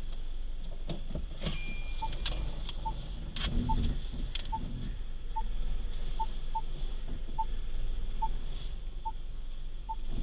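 A car's low engine and road rumble with scattered knocks and clicks. From about two seconds in, a faint short electronic beep repeats at one pitch, roughly once a second.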